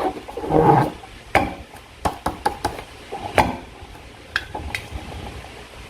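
Slime being squished and worked by hand: a wet squelch in the first second, then a scattering of sharp sticky clicks and pops.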